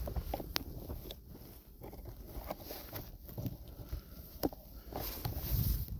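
Footsteps crunching through deep snow in an uneven walking rhythm, with a couple of sharp clicks among the steps and a low rumble underneath.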